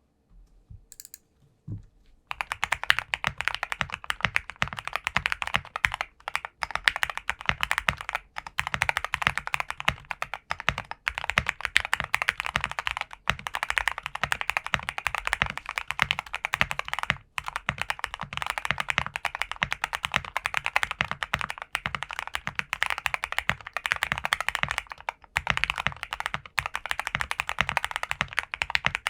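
Nova65 mechanical keyboard with Gateron Black Ink V2 linear switches being typed on fast and continuously, a dense run of key clacks starting about two seconds in.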